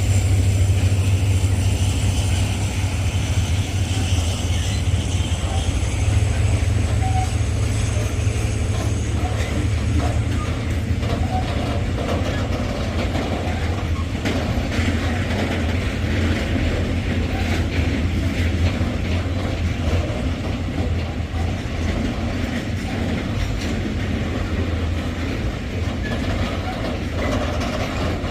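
Diesel train running: a steady low engine drone, with a high whine that fades away over the first ten seconds or so. From about twelve seconds in, the wheels clatter over rail joints.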